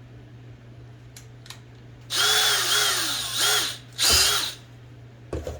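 Small electric drill run in two short bursts, the first nearly two seconds and the second about half a second, its pitch dipping and rising with the trigger. It is drilling out a broken pin in an IBM Selectric II typewriter part.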